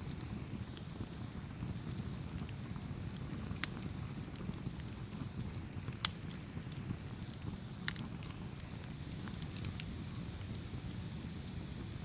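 Wood fire burning with a steady low rumble and scattered sharp crackles and pops; the loudest pop comes about halfway through.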